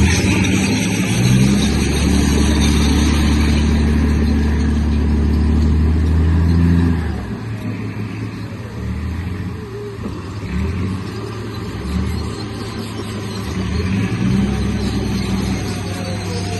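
Remote-control bulldozer running: a steady low motor drone that holds for about the first seven seconds, then falls away and comes back in short bursts as it stops and starts.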